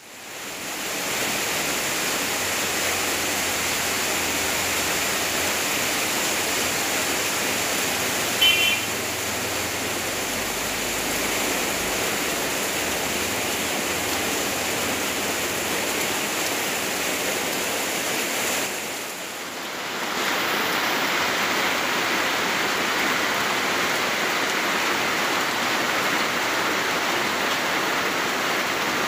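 Steady rushing noise of rain and running water. A brief high-pitched chirp sounds once about eight seconds in, and the rush dips for about a second near the two-thirds mark, then comes back a little brighter.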